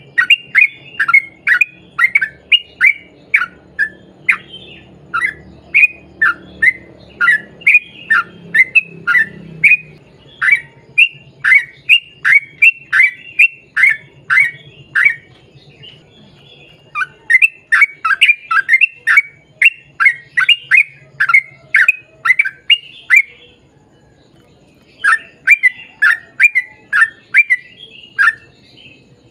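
Yellow-vented bulbul (trucukan) singing a long, fast run of short, sharp, falling notes, about three a second. The run breaks off twice, about 16 seconds in and again about 24 seconds in, then picks up again.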